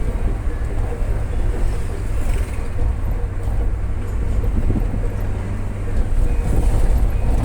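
Steady low rumble of a moving vehicle on the road, engine and road noise without any sharp events.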